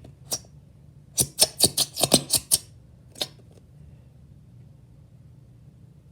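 A quick run of about seven sharp clicks or taps in just over a second, with single clicks before and after, from hands handling slime-making supply containers.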